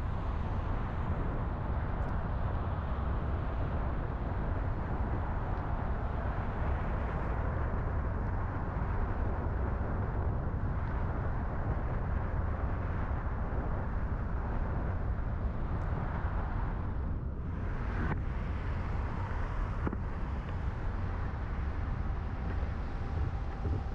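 Steady vehicle noise: a constant low rumble with an even hiss above it.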